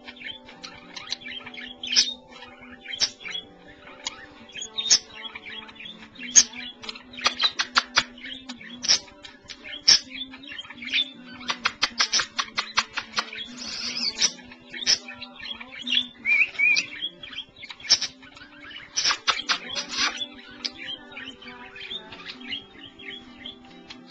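Pet budgerigars (parakeets) chirping and warbling, with several fast runs of rapid clicking chatter.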